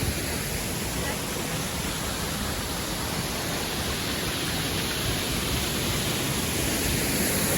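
Steady, even rush of a river waterfall, with no change throughout.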